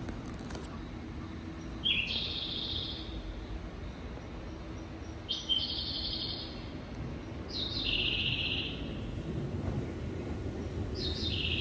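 A bird calling four times, each call a short note stepping up into a held buzzy note about a second long, over a steady low hum.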